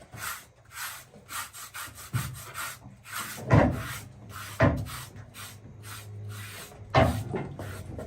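Rhythmic rubbing or scraping strokes, about two to three a second, with three louder thumps in the middle and near the end.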